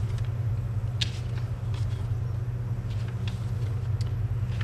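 A steady low hum, with a few faint clicks now and then.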